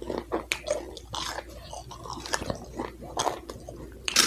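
A man chewing a mouthful of food close to the microphone, a string of short irregular clicks and smacks from his mouth.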